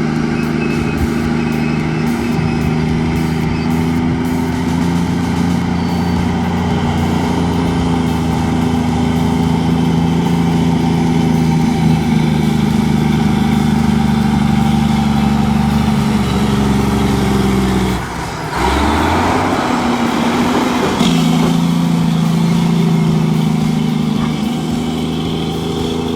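A large heavy-machinery engine running steadily under load. About two-thirds of the way through, the engine note drops away for a couple of seconds under a burst of harsher noise, then picks up again.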